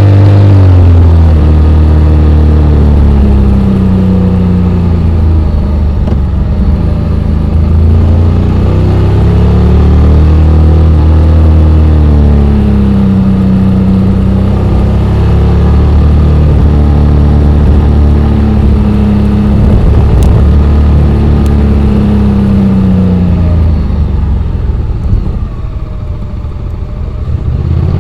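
Honda X-ADV 750's parallel-twin engine running on a mountain descent. Its pitch rises and falls several times as the throttle is opened and closed. Near the end it drops lower and quieter for a few seconds, then picks up again.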